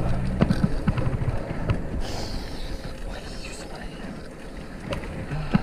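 Wind rumble on the microphone and road noise from a fixed-gear bike ride, with scattered small clicks and a brief hiss about two seconds in.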